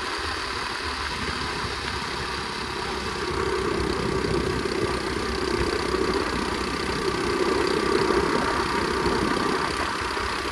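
Flywing pit bike engine running steadily at a relaxed cruising speed, its note swelling slightly about four seconds in and again near eight seconds.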